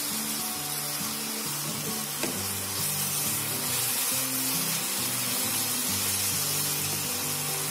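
Gongura (sorrel) leaves sizzling in hot oil as a wooden spatula stirs them around a non-stick pan while they cook down, with one light knock about two seconds in. Soft background music plays under it.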